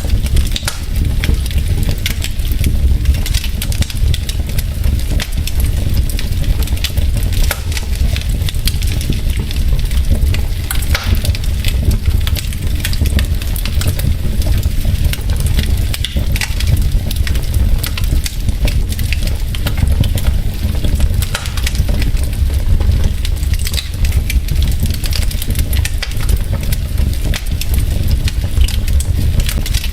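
Wood fire burning in a fireplace: logs crackling with many small irregular pops over a steady low rumble of the flames.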